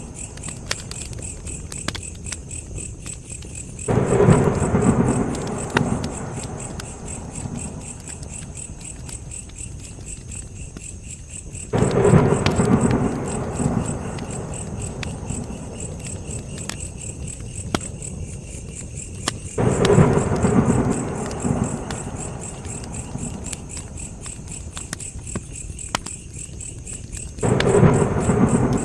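Wood fire burning, with scattered sharp crackles and pops. About every eight seconds, four times in all, a deep rushing surge starts suddenly and dies away over about two seconds. A steady high-pitched insect chirring runs beneath.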